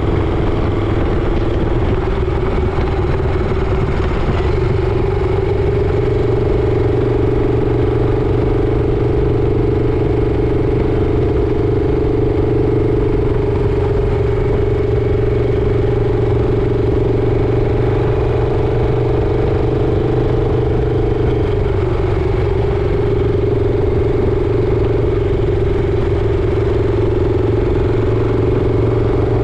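Motorcycle engine running steadily at cruising speed. Its note shifts slightly about four seconds in and again around twenty seconds in.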